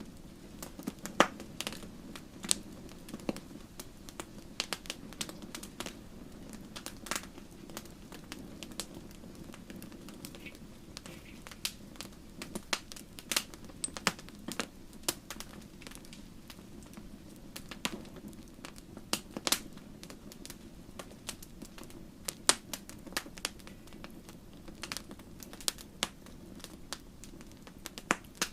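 Wood fire crackling and popping: a steady low rush of flames under irregular sharp pops and snaps, several a second, some much louder than the rest.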